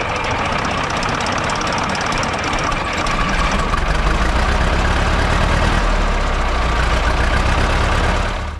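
A vehicle engine running loud and steady close by, a little louder from about four seconds in, then cutting off suddenly.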